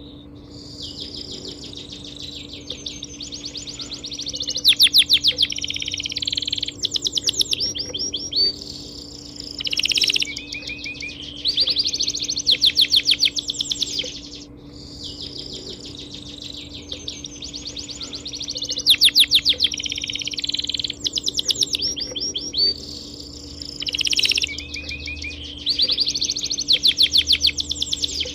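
Several small songbirds chirping and trilling at once, overlapping rapid high-pitched notes with louder bursts every few seconds, over a steady low hum.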